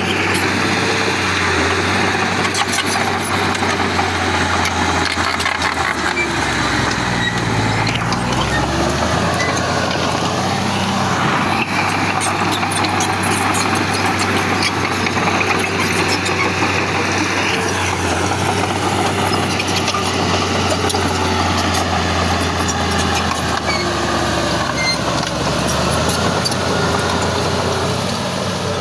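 Heavy diesel engine of earthmoving machinery running steadily under load, its low pitch shifting several times as the revs change, with a continuous clatter over it.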